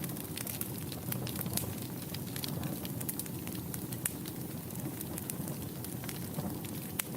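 A wood fire in a fireplace burning steadily with a low rumble, crackling and popping irregularly, with many sharp snaps.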